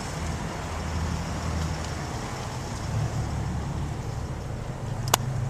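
A motor vehicle engine running steadily with a low hum, with one sharp click about five seconds in.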